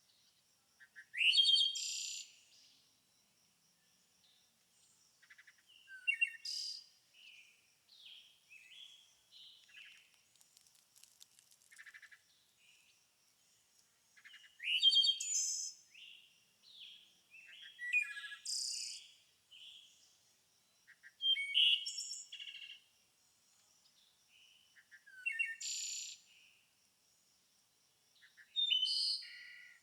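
Songbirds singing: a loud, quick, warbling phrase every three to four seconds, with softer chirps in between and a faint steady high note underneath.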